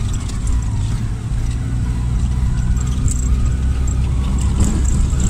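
Lada Niva 4x4's engine running steadily as the car drives over a rutted dirt track, heard from inside the cabin: a low drone with scattered light clicks and rattles.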